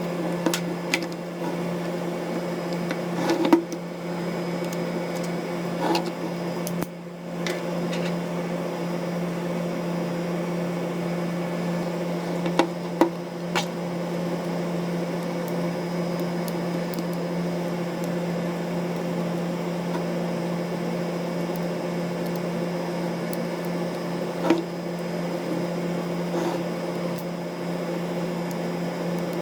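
Steady low electrical hum, with scattered small clicks and taps as tools and metal parts are handled during disassembly of a Canon EOS-1D X Mark III camera.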